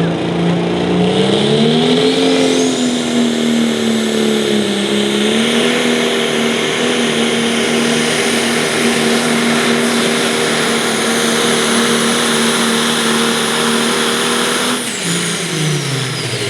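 John Deere 6030 pro stock pulling tractor's turbocharged diesel under full throttle, hauling the sled. The engine pitch climbs about a second in, holds high and steady with a high turbo whine over it, then drops as the tractor stops and the whine falls away near the end.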